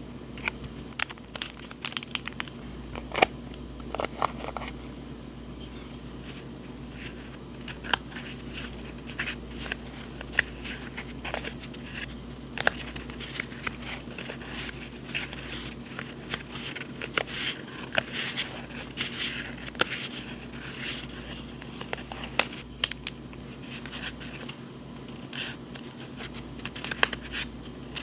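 Paper and packaging handled close up: crinkling and rustling with frequent sharp ticks and taps throughout, over a faint steady hum.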